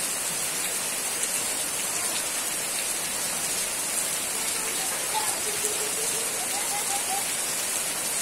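Steady rain falling on broad garden leaves and splashing into standing water on the ground.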